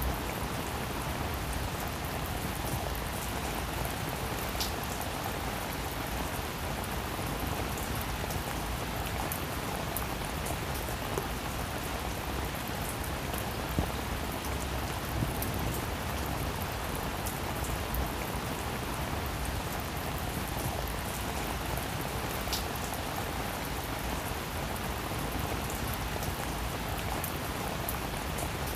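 Steady heavy rain falling on leaves and grass, with scattered single drops ticking sharply now and then.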